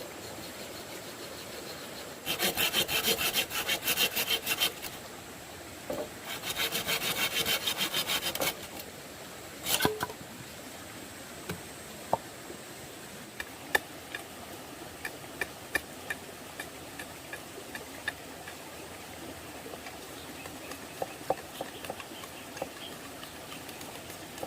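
Hand sawing of wood in two bouts of fast, even strokes, followed by a single knock and then scattered light taps and clicks.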